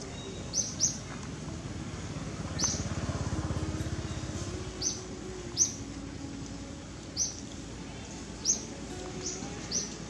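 A bird calling with short, high chirps, about nine of them at irregular intervals, over steady outdoor background noise. A low, pulsing rumble swells and fades from about two and a half to four and a half seconds in.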